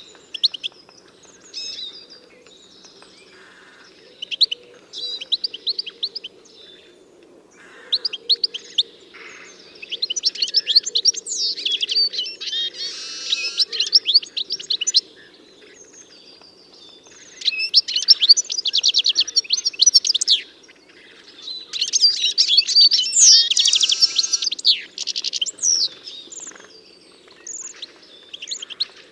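A songbird singing in bouts of rapid, high trills and chirps, the longest bursts coming about ten, eighteen and twenty-two seconds in, over a steady low background noise.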